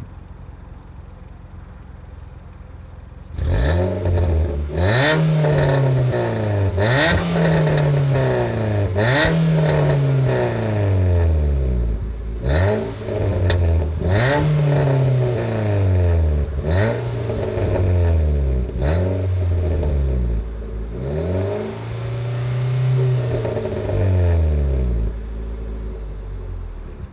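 Nissan Qashqai 1.6 16v four-cylinder petrol engine, heard through a new aftermarket rear exhaust box. It idles at first, then about three seconds in it is blipped sharply and repeatedly, roughly every two seconds, each rev climbing fast and falling away. Near the end it is held up once for longer before settling back toward idle.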